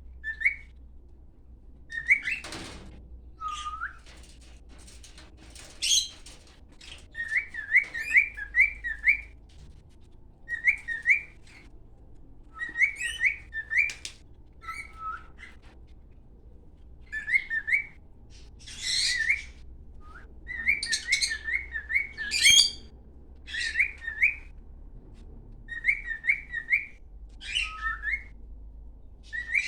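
A cockatiel singing: short clusters of quick rising-and-falling whistled notes, repeated every second or two, mixed with a few harsher chirps.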